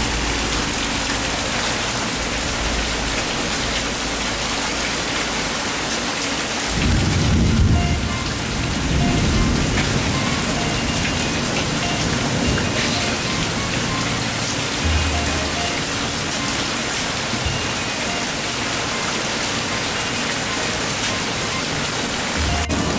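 Heavy rain pouring down steadily. About seven seconds in, a low rumble of thunder swells for a couple of seconds.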